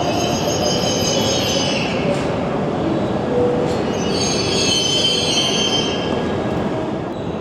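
Shinkansen train moving along a station platform track, a steady rumble with high-pitched wheel squeal in two spells: during about the first two seconds, then again from about four to six seconds in.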